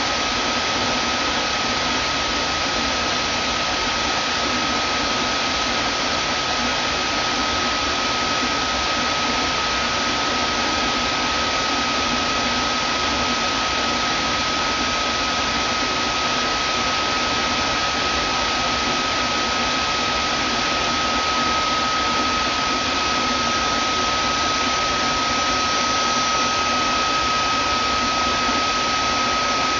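Vacuum cleaner motor running steadily: an even hiss with a constant high whine over it, no change in speed.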